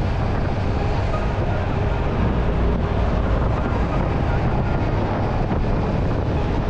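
Motorcycle engine running steadily while riding, with a low rumble and wind rushing over the microphone.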